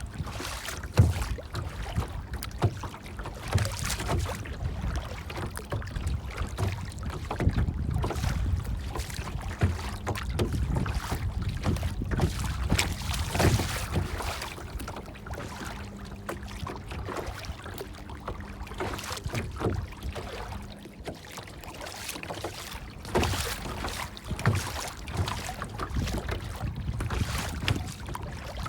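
Water splashing and lapping in irregular strokes over a low rumble of wind.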